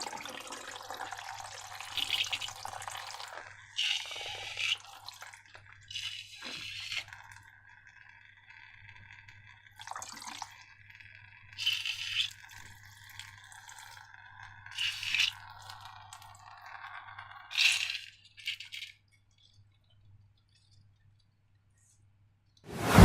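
Slime being squeezed and handled by hand: a series of short, wet, crackling squelches every second or two, with faint sticky sounds between them.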